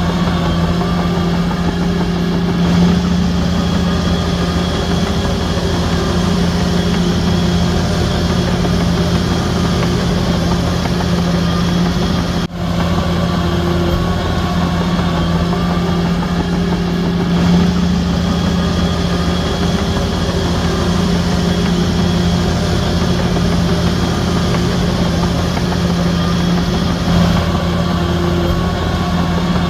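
Heavy diesel engine of a Shantui DH17C3 bulldozer running steadily at an even, low hum, with a split-second break about halfway through.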